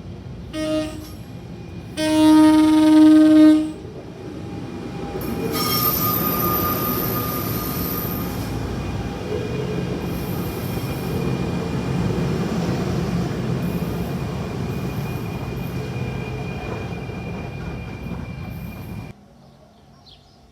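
Train horn sounding a short toot, then a longer, loud blast about two seconds in. The train then passes with a steady rumble of wheels on rail and high squealing tones for about thirteen seconds, cutting off suddenly near the end.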